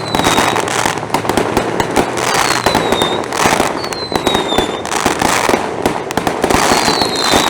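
Continuous barrage of fireworks and firecrackers: dense, rapid crackling bangs throughout, with a high whistle that falls in pitch recurring several times.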